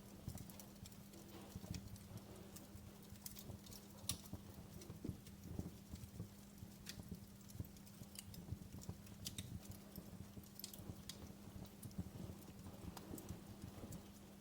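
Wood fire crackling softly, with irregular sharp pops and snaps over low soft thuds and a faint steady hum underneath.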